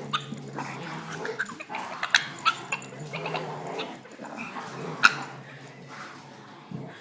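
A Boston terrier making strange, alien-like noises: a low, drawn-out whining drone that keeps restarting, broken by sharp yips and barks, the loudest about five seconds in. It is the sound of a worked-up, frustrated dog that is kept from playing with other dogs.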